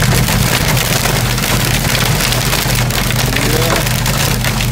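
Heavy rain pelting the windshield and roof of a moving vehicle, heard from inside the cab as a dense patter of drops, over a steady low drone of engine and road.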